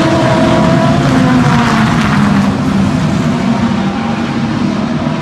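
A field of sports-prototype and GT race cars running at full throttle, several engines sounding at once; the sound swells as a car passes closest about two seconds in, then eases slightly.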